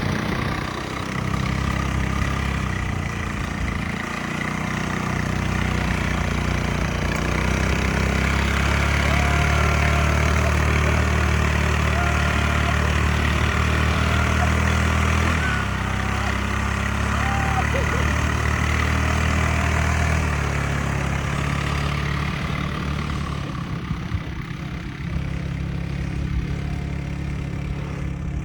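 Quad bike engine running under way, growing louder and holding a steady pitch through the middle, then easing off after about twenty seconds.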